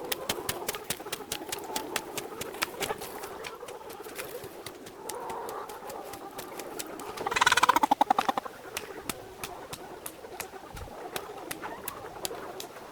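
Rural outdoor ambience with many quick clicks throughout. About seven seconds in comes one loud, buzzy animal call lasting about a second.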